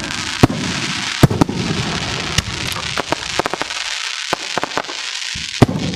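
Aerial fireworks display: a rapid string of sharp bangs from bursting shells over a continuous crackling hiss. The loudest reports come about half a second in, just after a second, and near the end.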